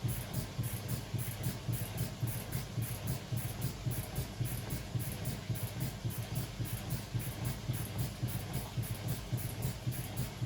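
Beko WML 71433 NP washing machine running, a steady low hum that pulses evenly about three times a second.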